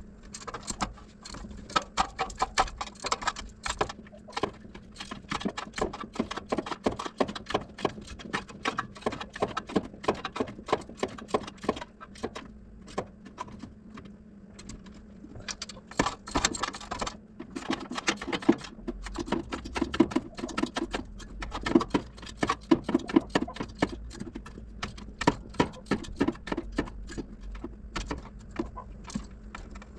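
Hand ratchet clicking in quick, irregular runs, with light metallic clinks of tools, as exhaust manifold bolts are run in on an AMC V8, over a faint steady hum.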